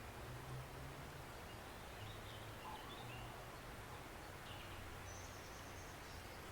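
Woodland stream flowing gently, a faint even wash of water, with a few brief bird chirps from about two seconds in and a low steady hum underneath.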